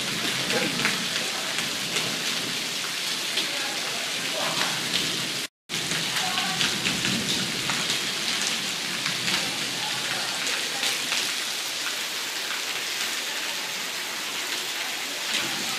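Heavy rain falling steadily on wet paving, a constant hiss. The sound cuts out for a split second about five seconds in.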